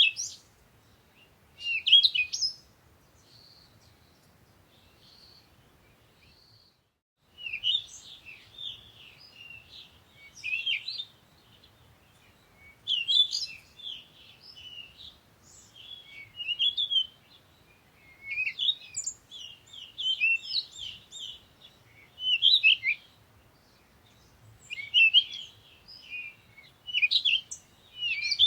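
Forest songbirds chirping and singing in short, high-pitched phrases. There is a lull with only a few faint notes a few seconds in, a brief drop to silence about seven seconds in, then near-continuous chirping.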